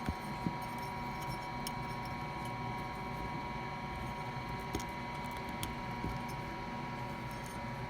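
Steady electrical hum with a few faint, short clicks of a steel spiral lock clip being worked into the wrist-pin groove of a piston.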